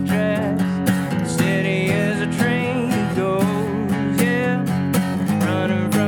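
Acoustic guitar strummed in a steady country-style rhythm, with a wavering melody line bending above the chords: an instrumental passage of the song.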